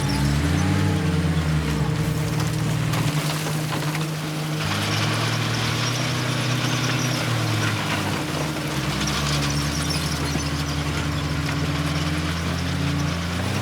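Heavy diesel earthmoving machinery running, its engine pitch rising and falling as it works. A higher, hissing noise joins about four and a half seconds in.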